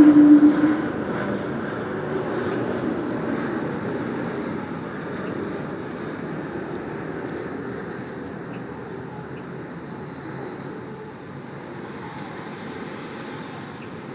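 Outside vehicle noise heard from an apartment. It is loudest at the start, with a short low tone in the first second, then fades slowly and evenly like a vehicle moving away.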